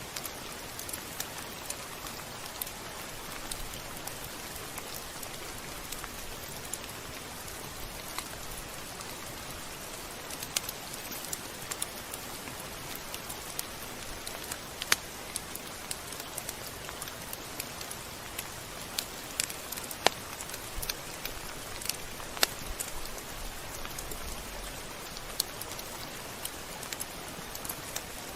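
Steady rain falling, an even hiss with irregular sharp ticks of drops striking a surface.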